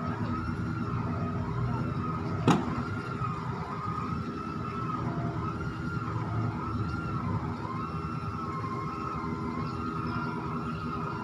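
Shipyard slipway winch machinery running steadily while hauling a ship up on rail cradles by wire rope. Over it a wavering squeal dips and rises about once a second, and there is a single sharp knock about two and a half seconds in.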